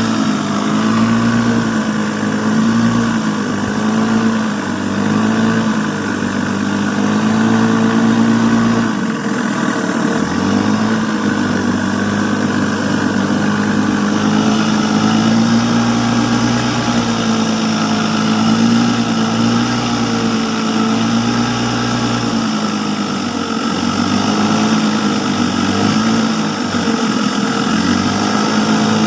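A small engine running steadily, its pitch wavering slightly up and down as the speed shifts.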